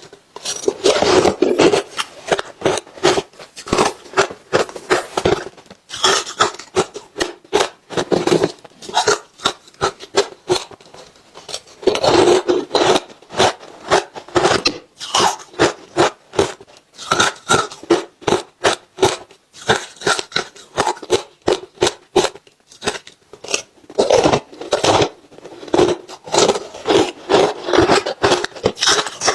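Close-miked crunching and chewing of ice: rapid sharp crackles that come in louder spells every several seconds.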